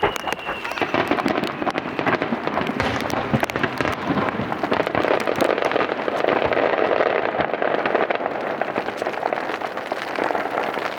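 Starmine fireworks display with dense, rapid crackling and popping bursts, mixed with the hiss of falling rain.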